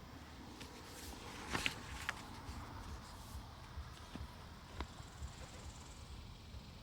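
Quiet woodland ambience: low wind rumble on the microphone, with a brief crackly rustle about a second and a half in and a few small clicks after it.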